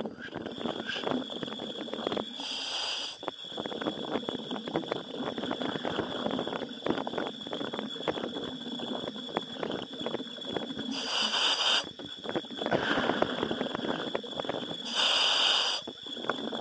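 Diver's helmet communications from underwater: continuous crackling and bubbling under a steady high whine, with three short hissing breaths through the helmet about 2.5, 11 and 15 seconds in.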